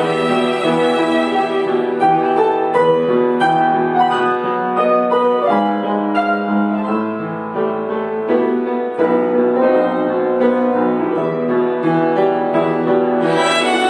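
Violin ensemble with piano accompaniment playing a lyrical melody; through the middle the piano's struck notes come to the fore, and the full violin sound returns near the end.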